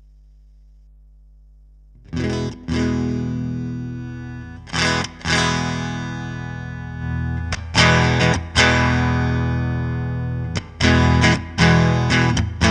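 Electric guitar played through a Line 6 Helix amp-and-cab model. A faint amp hum comes first, then about two seconds in chords are struck and left to ring, one after another, with quicker strikes near the end.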